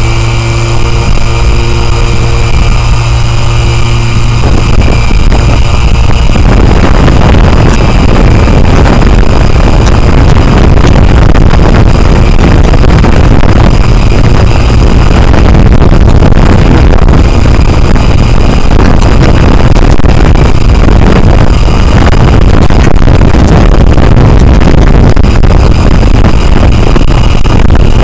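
Chroma drone's motors and propellers running: a steady hum with fixed tones for about six seconds, then a loud rushing noise that drowns the tones for the rest of the time.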